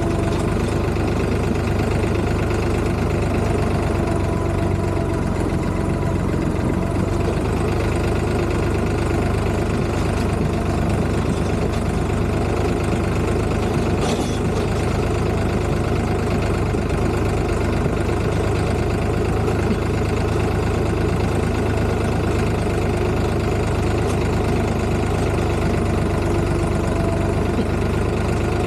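Tractor engine running steadily at a constant pace, deep and even throughout.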